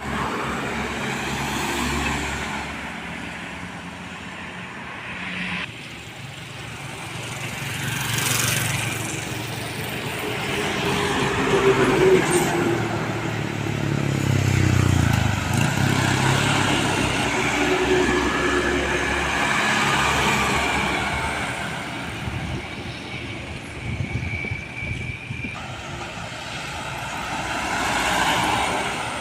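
Heavy diesel trucks and other road traffic passing one after another, each engine growing louder and then fading as it goes by. The loudest pass comes about halfway through.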